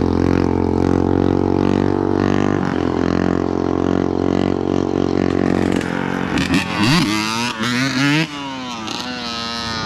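Dirt bike engine running steadily, then revving up and down several times about six to eight seconds in.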